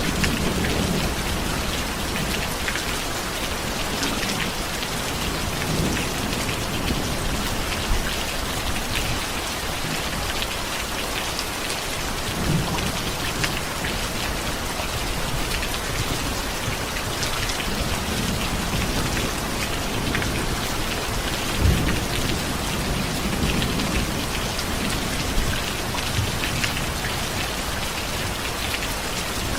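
Steady rain falling on a surface, with low rumbles of thunder now and then.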